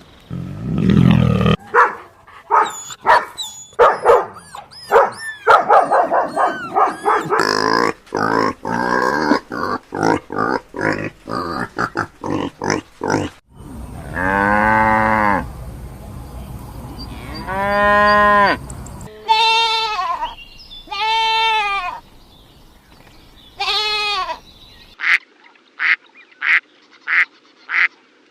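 A succession of farm animal calls: for about the first half, a dense run of short, overlapping calls; then several long, drawn-out calls with a rising-and-falling pitch; then near the end a quick run of short, evenly spaced calls.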